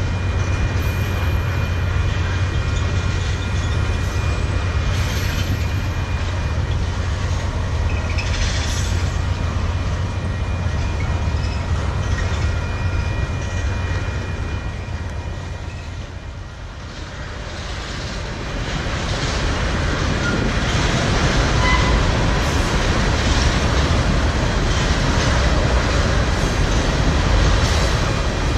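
Tank cars of a unit ethanol freight train rolling past, steel wheels running on the rails with a steady rumble. The sound dips briefly about two-thirds of the way through, then grows louder again.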